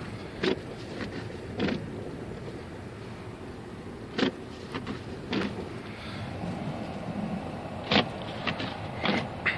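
Taxi heard from inside the cabin while driving in a snowstorm: a steady road-and-engine noise with about six sharp, irregularly spaced knocks and clunks.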